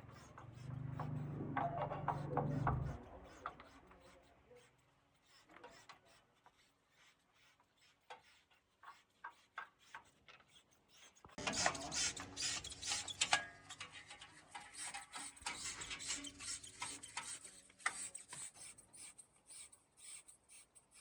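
Rough hand scraping, quiet at first, then a dense run of short rasping strokes from about eleven seconds in; a low hum fades out in the first few seconds.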